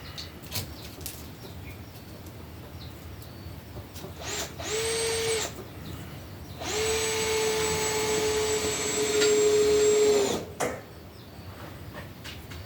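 Power drill running in two bursts at a steady pitch: a short one of about a second, then a longer one of nearly four seconds that spins down at the end.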